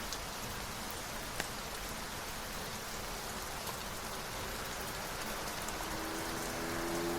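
Steady rain falling in an even hiss, with a single sharp drop tick about a second and a half in. A faint steady hum comes in near the end.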